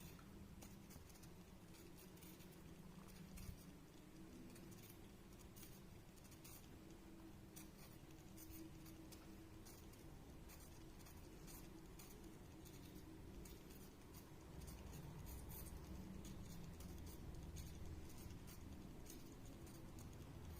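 Budgie nibbling and pecking at a piece of apple: faint, irregular little clicks and crunches of the beak, over a low steady hum.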